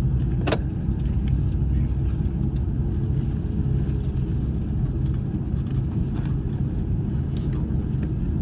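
Cabin noise inside an Airbus A350-900 on the ground before takeoff: a steady low rumble from its idling Rolls-Royce Trent XWB engines and the airframe. There is a sharp click about half a second in, and a few faint clicks later.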